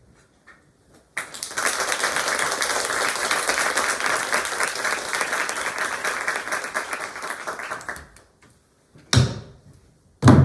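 Audience clapping, starting about a second in and dying away by about eight seconds. Near the end come two sharp knocks, the second with a low ringing boom.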